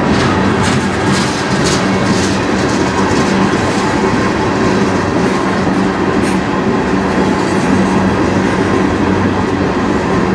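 Freight train tank cars rolling past: a steady rumble of steel wheels on the rails, with sharp wheel clicks over rail joints about twice a second in the first few seconds.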